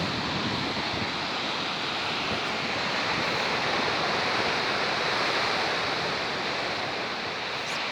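Stormy sea surf breaking on the shore as a steady rush of water, with strong wind buffeting the microphone.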